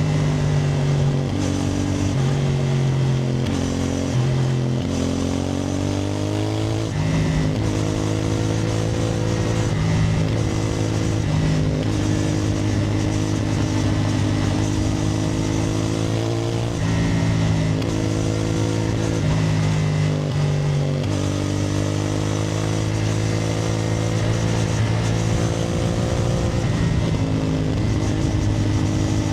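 CFMoto 450NK's parallel-twin engine under way: the note climbs and drops back several times in the first few seconds as the bike pulls through the gears, holds fairly steady while cruising, then climbs through upshifts again about two-thirds of the way in.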